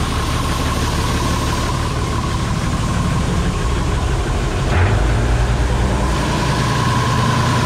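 Combine harvester running steadily: a low engine rumble with a thin steady whine above it. About five seconds in there is a short knock, and the low rumble is louder after it.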